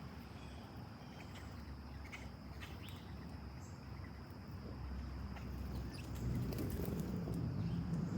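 Steady chorus of late-summer insects, a continuous high drone, with a few short bird chirps. A low rumble grows louder in the second half.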